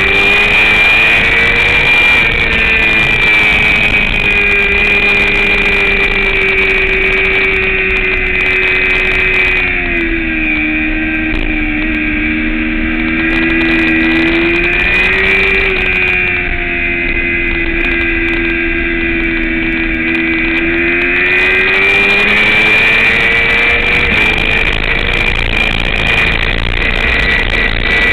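Sport motorcycle engine running hard at high revs on a race track, its pitch holding high, dropping twice as the throttle is rolled off (about ten seconds in and again from about sixteen seconds), and climbing back as the rider accelerates.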